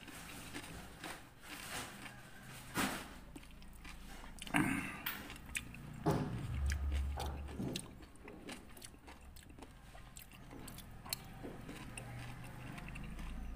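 Close-miked chewing and biting of rujak, raw fruit chunks in a spicy peanut and palm-sugar sauce, with sharp clicks now and then from the spoon and fork against the clay bowl.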